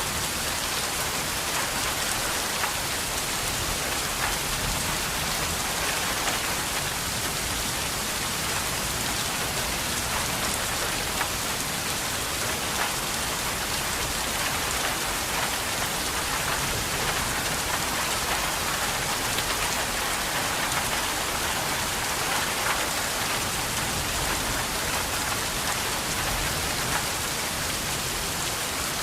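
Steady rain falling, a dense even hiss with the patter of many drops hitting a surface.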